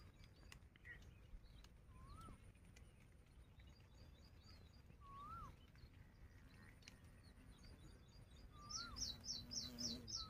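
Faint bird calls: a short whistle that rises and falls, repeated about every three seconds, and near the end a quick run of about seven high chirps, the loudest sound here, over faint outdoor background noise.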